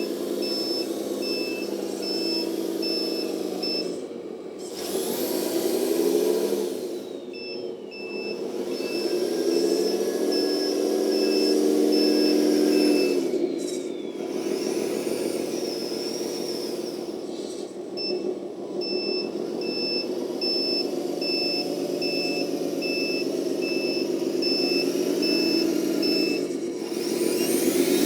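The sound module of a 1/14-scale RC 8x8 tractor truck plays a simulated truck engine, rising and falling in pitch several times with the throttle. Through much of it a steady, evenly pulsing reversing beep sounds, stopping and restarting twice.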